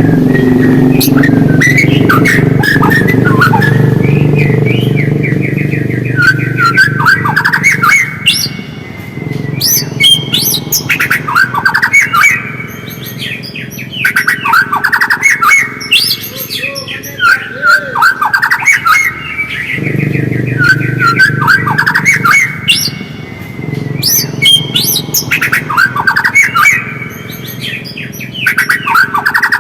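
White-rumped shama (murai batu) chattering: clusters of quick, sweeping twittering notes repeated every second or two. A low steady hum runs under the first several seconds and again a little after the middle.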